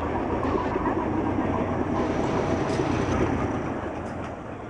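A light WDS4 diesel-hydraulic locomotive running through at speed, its engine and wheels on the rails making a steady noise that fades as it moves away near the end.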